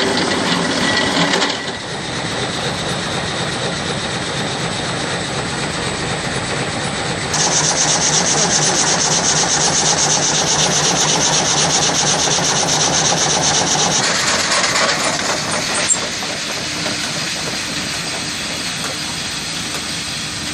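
Old machine-driven wood saw running steadily. From about seven to fourteen seconds in, a louder, higher rasping with a fast, even rhythm as it cuts through wood. One sharp knock comes a couple of seconds later.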